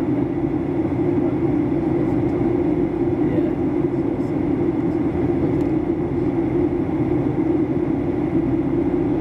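Steady in-flight cabin noise of a Boeing 737-800 during descent: a constant rush of airflow and the hum of its CFM56 engines heard from inside the cabin.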